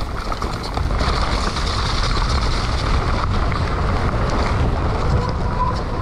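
Wind buffeting the microphone over the low rumble and rattle of a mountain bike running down a steep, muddy descent; it gets louder about a second in as speed picks up.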